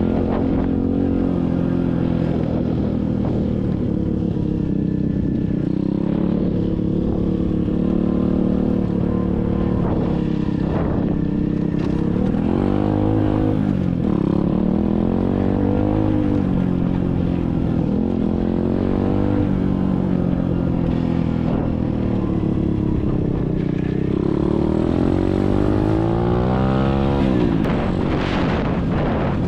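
SSR 125cc dirt bike's single-cylinder four-stroke engine running while riding. Its pitch rises and falls several times with the throttle, with the longest climb and drop near the end.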